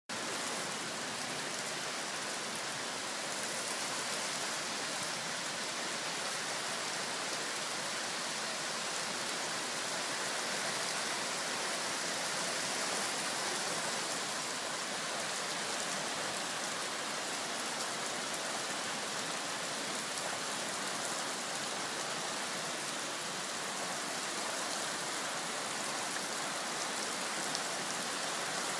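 Rainstorm: rain falling steadily on the ground, an even hiss that holds at the same level throughout.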